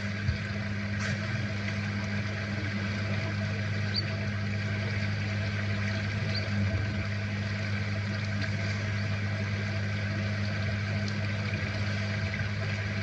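A steady low motor hum, like an idling vehicle engine.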